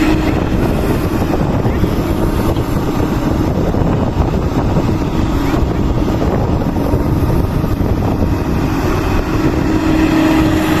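Doosan DX225 excavator's diesel engine running steadily under working load, a dense rumble with a faint steady tone that swells near the start and again near the end.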